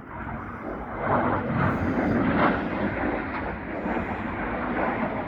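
Red Arrows' BAE Hawk jet trainers flying over in formation: a broad jet roar that swells about a second in and stays loud.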